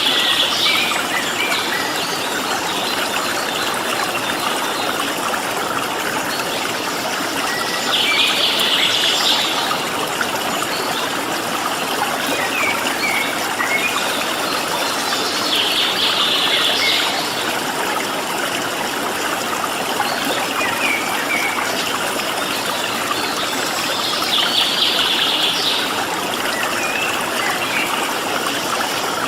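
Steady rush of flowing water, with a bird's short high trill repeating about every eight seconds, four times, and faint small chirps in between.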